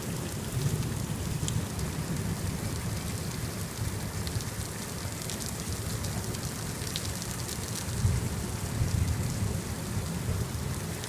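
Heavy rain pouring down: a steady hiss with scattered sharp drip ticks over a low rumble, which swells about eight seconds in.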